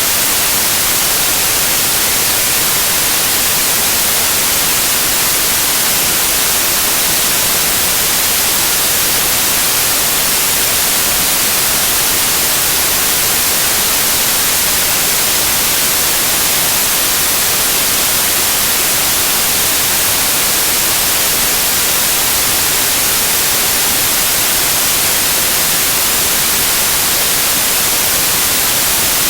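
Loud, steady white noise: an even hiss with no changes, brightest in the high end.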